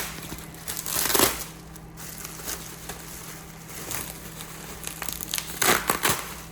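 Packaging crinkling and rustling as exhaust hardware is unwrapped by hand, with louder crackling bursts at the start, about a second in, and twice near the end.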